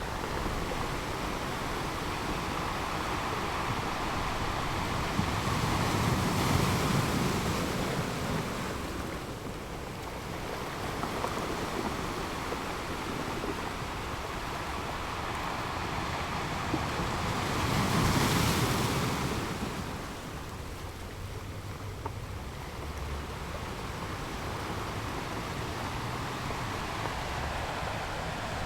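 Surf on a sandy North Sea beach: a steady wash of waves, with two louder breakers swelling up about six and eighteen seconds in.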